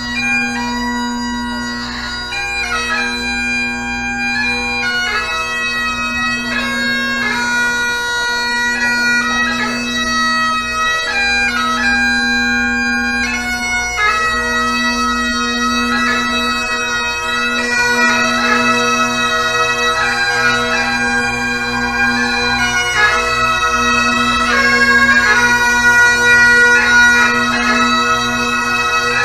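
Bagpipes playing a popular tune: a melody of changing notes over one steady drone.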